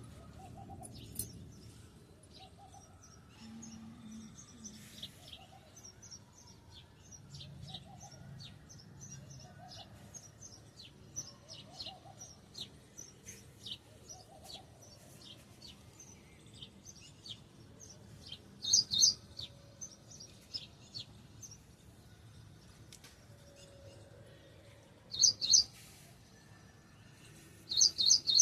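Several birds chirping and calling: a steady stream of short, high chirps, with three louder bursts of chirping about two-thirds of the way in and near the end. A lower call repeats about every second and a half through the first half.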